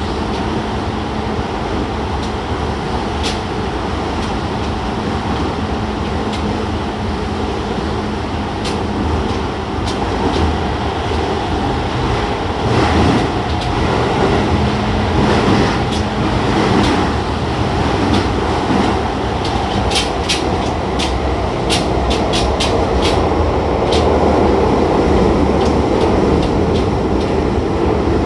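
Early-batch Toei 10-300 series subway train with a Mitsubishi IGBT VVVF inverter, running between stations: steady rumble of wheels and traction motors with a low electric hum. Past the middle comes a quick run of sharp clicks from the wheels over rail joints.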